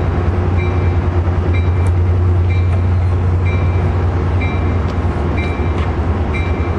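A train running with a steady low rumble, with a short ringing ding repeated about once a second, like a bell.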